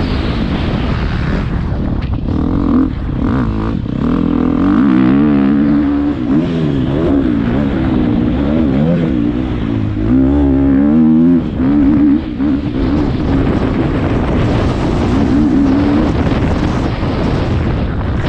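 Motocross bike engine revving hard and dropping off again and again as the rider works the throttle and shifts gears, its pitch rising and falling continuously. Heard close up from a helmet-mounted camera.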